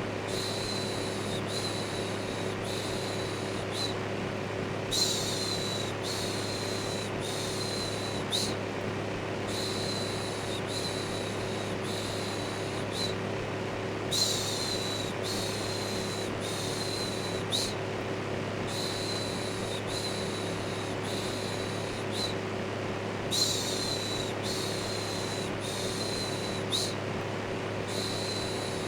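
Electric fan running with a steady hum and whoosh, overlaid by repeated shushing "shhh" sounds, about one a second in runs of four or five with short breaks between runs: a looped white-noise soothing track for babies.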